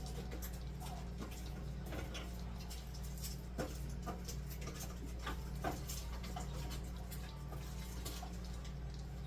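Scattered light clicks and knocks of food containers and items being handled and moved about while a fridge is cleared out, over a steady low hum.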